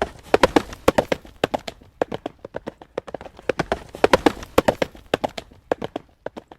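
Horse hooves trotting on a hard road surface: a quick, rhythmic clip-clop of sharp strikes. It grows louder briefly near the start and again about four seconds in.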